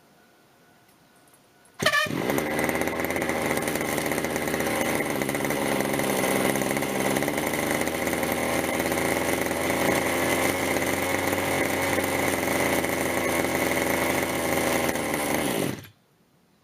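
Zenoah G26 two-stroke gasoline engine on an RC helicopter catching about two seconds in and running at a steady speed, then cutting off suddenly near the end. The engine is warm and its fuel mixture is set rich.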